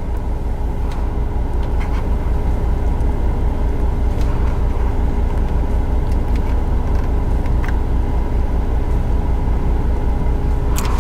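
Steady low hum of the 2018 Ford EcoSport SES's 2.0-litre inline-four idling, heard inside the cabin, with a few faint clicks.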